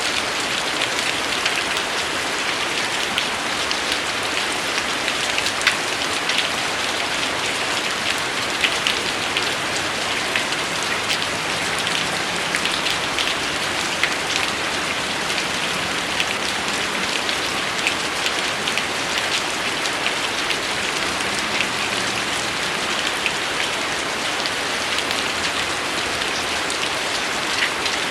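Steady rain: an even hiss with many small drop impacts heard separately through it.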